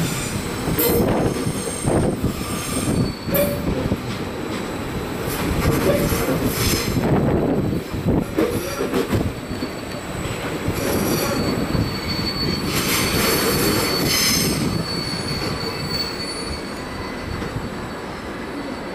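Regional electric multiple-unit train rolling through station trackwork, its wheels squealing in repeated high-pitched bursts over a steady rumble. A few sharp knocks come in the first few seconds, and the squeal is loudest about two-thirds of the way in.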